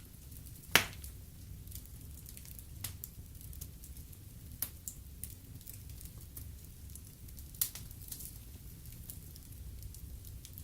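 Wood fire burning in a fireplace: a low steady rumble with scattered crackles and sharp pops, the loudest pop about a second in and another a few seconds before the end.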